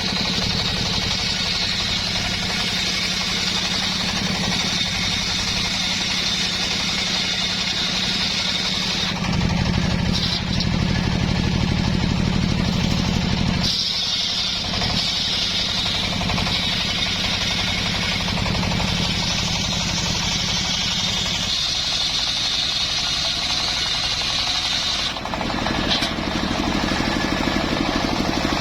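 Engine-driven wood saw running steadily, its pitch and level shifting several times.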